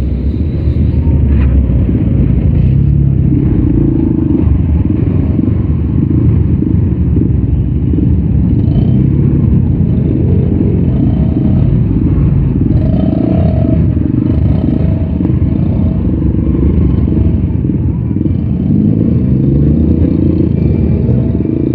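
Yamaha Scorpio Z single-cylinder four-stroke engine running steadily as the motorcycle is ridden at an even pace.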